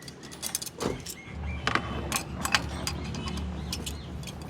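Scattered sharp metal clinks and taps, with a steady low hum coming in about a second in.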